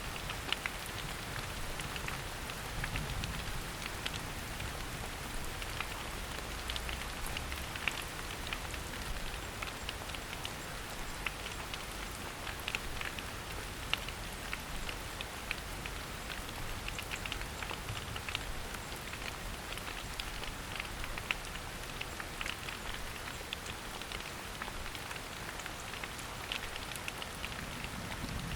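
Steady rain falling in a forest: an even hiss with many separate drops striking close by.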